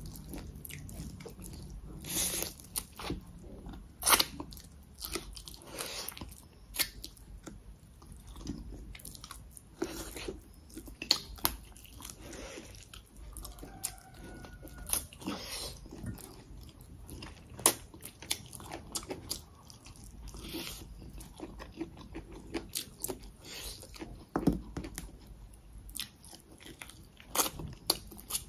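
A person chewing food close to the microphone, with irregular sharp mouth clicks and smacks.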